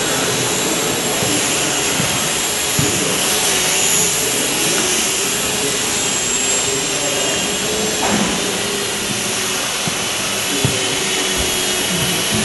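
Small electric model airplane's motor and propeller buzzing steadily, its pitch wavering up and down as the plane flies and the throttle changes.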